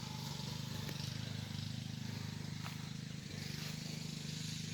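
A steady low machine hum with a faint hiss over it, unchanging throughout.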